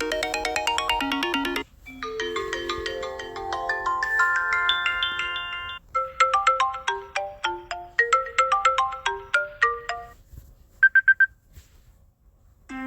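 Phone ringtone melodies played one after another, each a few seconds of bright electronic chime-like notes cut off abruptly before the next begins. After the third, a short cluster of four quick identical beeps, then a brief quiet gap.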